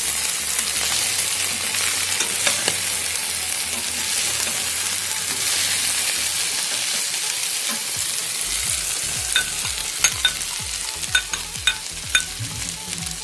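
Cut okra and green chillies sizzling in hot oil in a stainless-steel pan while being stirred with a slotted steel spoon. From about nine seconds in, the spoon clicks against the pan several times.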